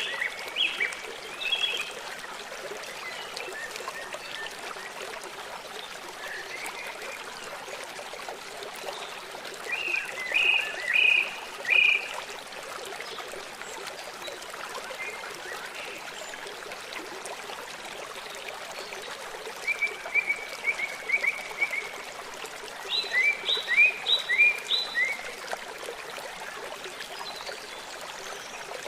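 Steady trickle of running water, with four bursts of rapid repeated chirping calls high above it.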